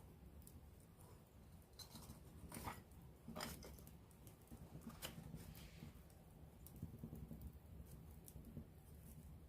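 Wood campfire crackling faintly: scattered small pops and snaps, with a few louder snaps about three and five seconds in, over a soft low noise from the flames.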